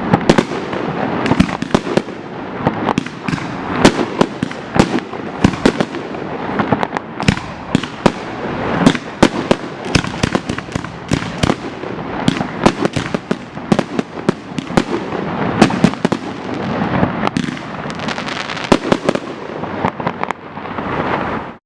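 Aerial fireworks display: a dense barrage of shell bursts, several sharp bangs a second over continuous crackling, cutting off suddenly at the end.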